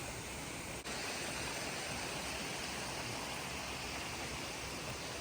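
Steady rush of flowing water from a creek, with a brief dropout about a second in, after which it is slightly louder.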